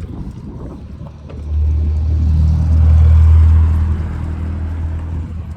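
Low engine rumble of a motor vehicle that swells about a second and a half in, is loudest near the middle, then eases off.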